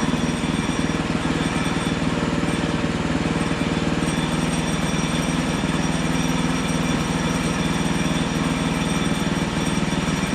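Portable band sawmill's engine running steadily at an even speed.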